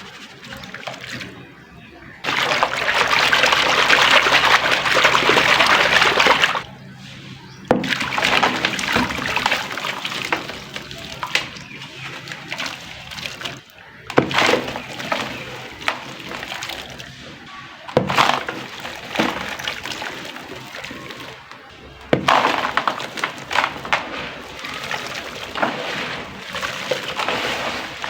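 Dry, dusty lumps crumbling and dropping into a tub of water, splashing and sloshing with a crackling fizz. A dense hiss of loose material pours in for a few seconds early on, then come separate crumbles, sharp knocks and splashes.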